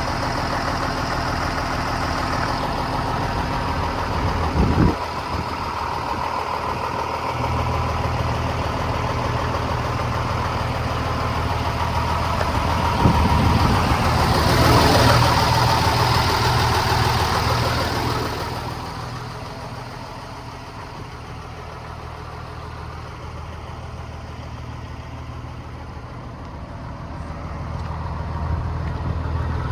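Scania-Vabis 110 truck's diesel engine running steadily, with a brief loud knock about five seconds in. It grows louder with a hiss around the middle, drops quieter for several seconds, then rises again near the end.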